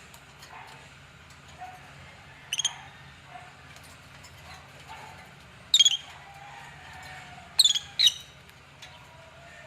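African lovebirds giving short, shrill chirps: one about two and a half seconds in, another near the middle, and two close together near the end, over a faint steady low hum.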